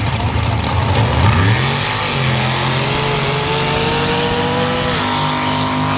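Sand drag trucks launching and accelerating hard down the sand track: after a low rumble the engine note climbs steadily in pitch for about three seconds, then changes sharply about five seconds in, as at a gear shift, and holds.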